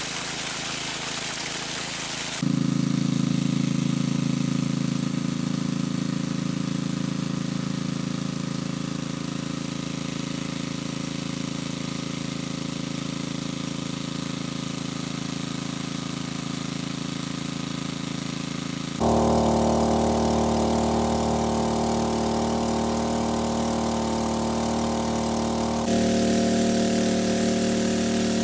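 A small engine running steadily with a droning hum; the sound jumps abruptly in pitch and loudness three times.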